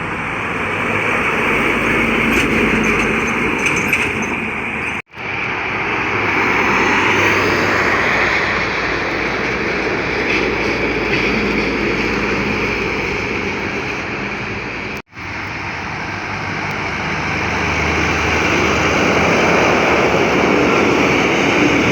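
Highway traffic of heavy trucks passing close by: a loud, steady rush of tyres and engines. It breaks off in brief silent gaps about 5 and 15 seconds in.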